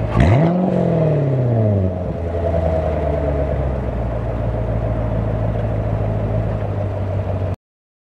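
2014 Corvette Stingray Z51's 6.2-litre LT1 V8 idling through a GM Performance exhaust, blipped once: the revs rise sharply and fall back within about two seconds. It then settles to a steady idle until the sound cuts off suddenly near the end.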